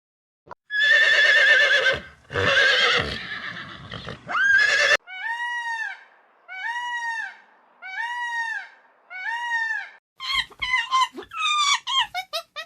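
A horse neighing, a loud quavering whinny lasting about four seconds. It is followed by four evenly spaced, high, rising-and-falling calls from another animal, and then a run of short, quick yelps near the end.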